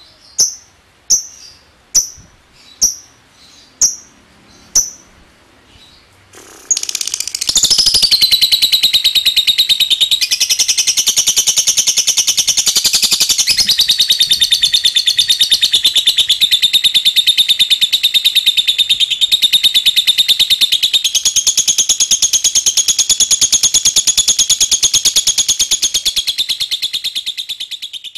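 Lovebird giving a few single sharp high calls about once a second, then, about six seconds in, breaking into a long ngekek: a rapid, unbroken rattling chatter held for about twenty seconds that stops near the end.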